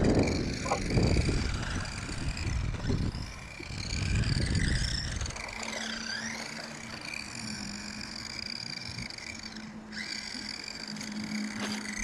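Small electric RC cars running: a high motor whine that dips and rises in pitch as they slow and speed up, with a rumble of tyres or wind in the first few seconds.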